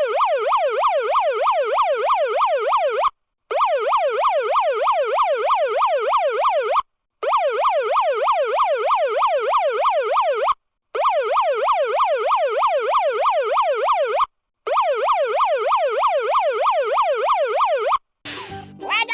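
Electronic yelp-style siren sound effect, its pitch sweeping rapidly up and down about three to four times a second. It plays in a loop of five runs, each cut off abruptly by a brief gap, and stops shortly before the end as a different sound starts.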